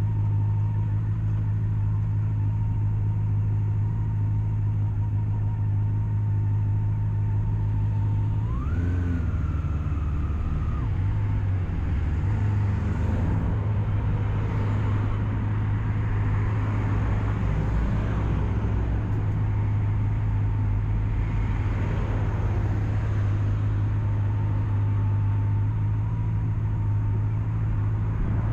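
Honda CB400SF's inline-four engine running at a steady speed. About eight seconds in the revs rise sharply, then ease back. This is followed by a stretch of shifting engine and road noise before it settles to a steady note again.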